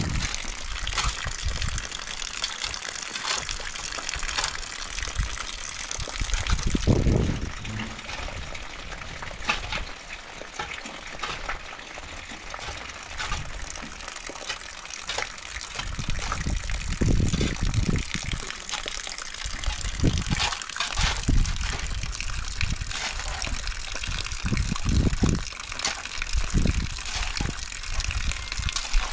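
Rain falling steadily, with water splashing and running, and a few low rumbles swelling through it.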